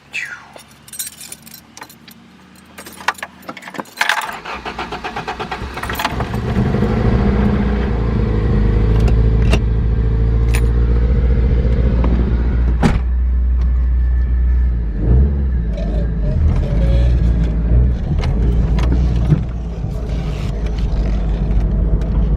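Keys rattling in the ignition, then a 1986 Toyota Corolla's 4A-GE twin-cam four-cylinder cranks on the starter for about two seconds, catches and settles into a steady run.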